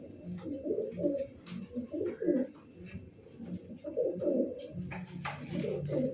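Domestic pigeons cooing repeatedly, with a short rustle about five seconds in.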